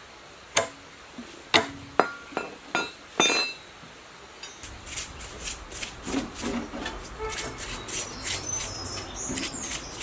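Hard objects clinking and knocking: a handful of sharp separate clinks, some ringing briefly, then a quicker run of lighter clicks over a low rumble from about halfway through.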